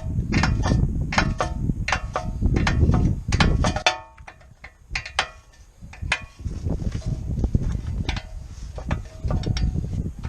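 Metal tools and parts clinking and knocking, a few irregular ringing strikes a second, over a low rumble that drops away for a couple of seconds in the middle.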